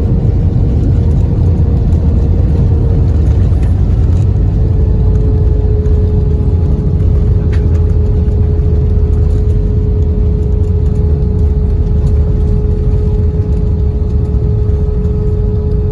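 Airbus A320 cabin noise from a window seat: the steady low rumble of the jet engines and airflow, with a steady hum that steps slightly lower about four seconds in.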